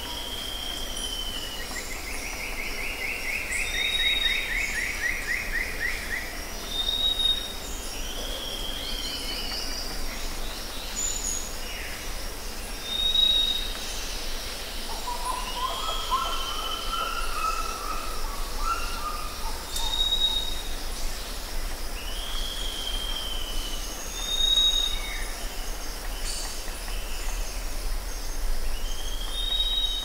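Forest birdsong from several birds: a short high note repeated about every two seconds, slurred whistles dropping in pitch, a rapid trill in the first few seconds, and a lower warbling phrase midway, over a steady background hiss.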